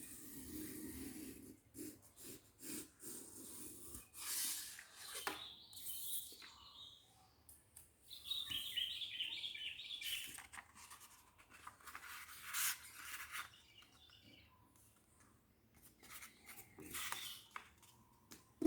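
A sheet of paper being folded by hand: irregular rustles and rubbing strokes as the folds are creased down, with a brief stretch of quick scratchy rubbing about halfway through.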